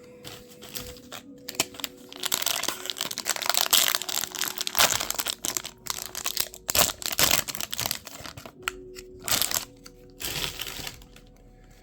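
Foil wrapper of a baseball card pack being torn open and crinkled, an irregular crackling that goes on for most of the stretch.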